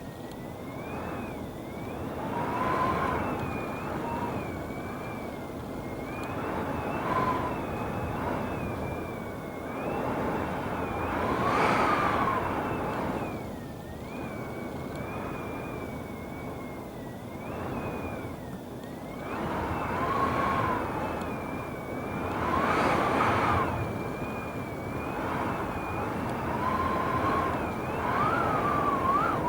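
Strong wind gusting at over 40 mph: a steady rushing roar that swells every few seconds. Over it runs a thin wavering whistle, and a lower howl rises with each strong gust.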